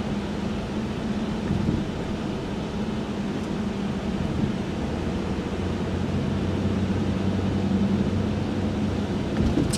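Cabin sound of a 1995 Chevrolet Monte Carlo driving at city speed: a steady low engine drone with road noise.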